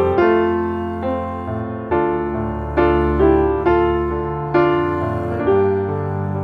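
Background piano music: slow, soft notes and chords struck about once a second, each left to ring and fade.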